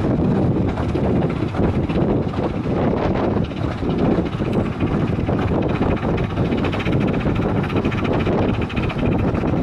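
A 15-inch gauge Ravenglass and Eskdale Railway train running along the line, heard from an open carriage: a loud, steady rumble of wheels on track and moving air, without a break.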